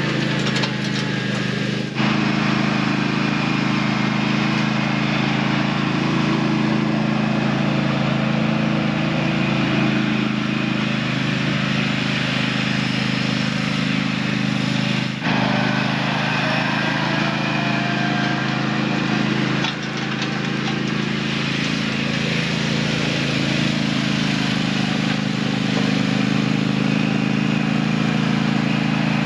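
Small engine running steadily at a constant speed while towing a drag leveler across a top-dressed lawn, with a few brief dips in level.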